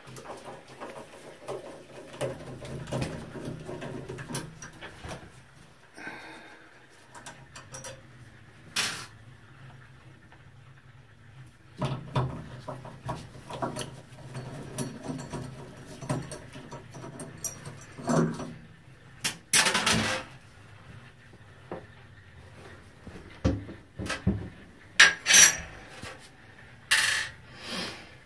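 Metal hand tools clinking, scraping and knocking against the parts of a Kohler tub and shower valve as it is taken apart, with a few loud sharp metallic clanks in the second half.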